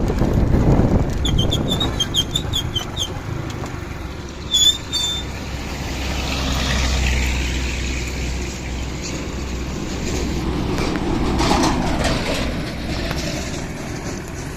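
Motorcycle running along a road with a steady low rumble and wind on the microphone. A string of short high chirps comes early, then a brief, sharp high beep about four and a half seconds in.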